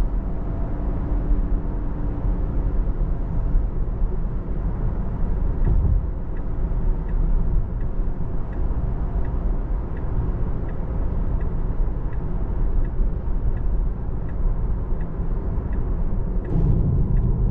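Inside the cabin of an electric Tesla Model 3 driving on a rain-soaked road: a steady low rumble of tyres and road noise with the hiss of wet spray. A faint, evenly spaced ticking runs through the middle part.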